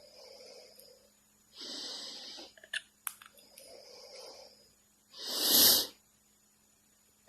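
Several noisy breaths or wheezes with a few small clicks, then one loud sneeze about five and a half seconds in.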